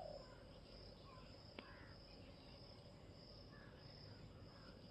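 Faint, steady high-pitched insect trill that swells and fades a little, over otherwise near-silent background; one faint click about a second and a half in.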